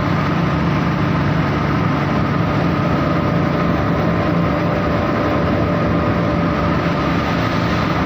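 Saurer JSC 330 carding machine running steadily: a loud, even machine hum with a constant low tone and a fainter steady higher whine.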